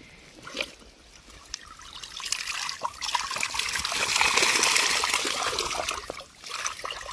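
Water trickling and splashing, swelling from about two seconds in, with small knocks, as a mesh fish trap is hauled out of the river and the water drains through it.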